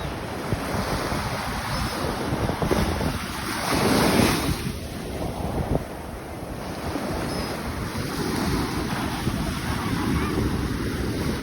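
Ocean surf washing onto the beach, swelling to a louder wave about four seconds in, with wind buffeting the microphone.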